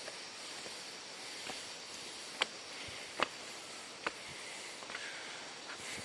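Steady hiss of a waterfall's rushing water, with three sharp clicks or knocks in the middle.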